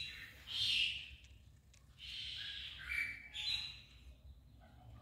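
Birds chirping in the background: several short high calls, one gliding upward, with a couple of faint clicks from handling.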